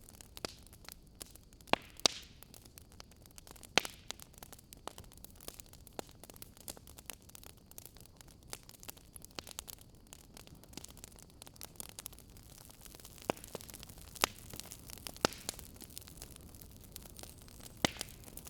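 Wood fire in a fireplace crackling: irregular sharp pops and snaps over a steady soft hiss, with a few louder pops scattered through.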